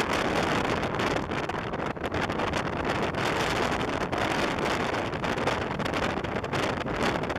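Steady rush of wind on the microphone of a motorcycle riding at highway speed.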